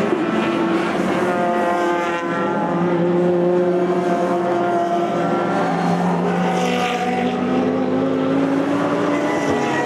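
Several open-exhaust race car engines running hard at once, their notes overlapping and gliding up and down in pitch as the cars accelerate and pass.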